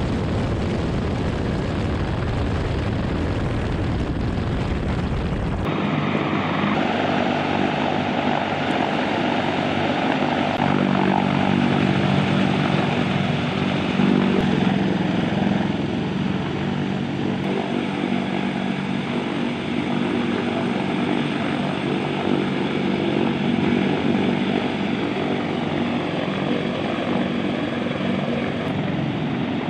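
CH-53K King Stallion heavy-lift helicopter running, a loud steady rotor and turbine drone. About six seconds in the sound changes abruptly from a deep rumble to a drone with several held tones.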